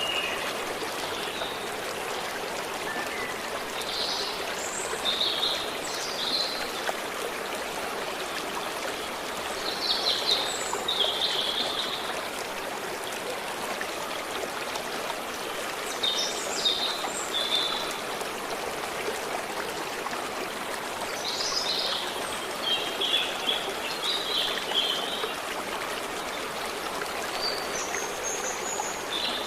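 Water of a stream running steadily, with a songbird singing short high phrases every few seconds over it.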